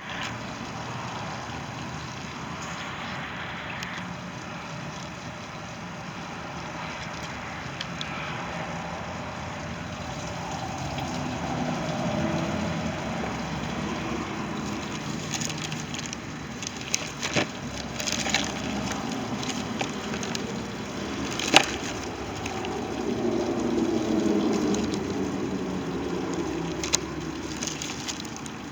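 90 hp Mercury outboard motor running steadily after a no-start problem was fixed, with a few sharp clicks in the middle.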